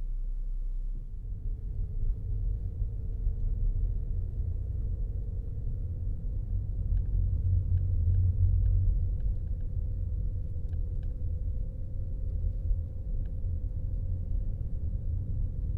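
Low, wavering rumble of a car driving, heard from inside the cabin, with a few faint light clicks about halfway through.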